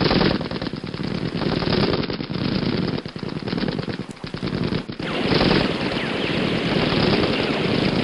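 Sustained machine-gun fire, the shots coming so fast they run together, getting louder about five seconds in.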